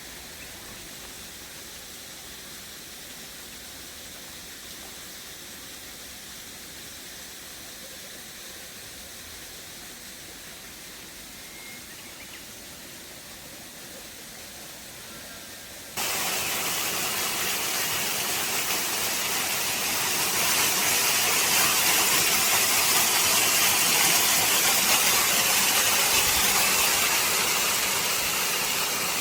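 Steady rushing, hiss-like noise with no clear pitch or rhythm. A little over halfway through it jumps suddenly much louder and brighter.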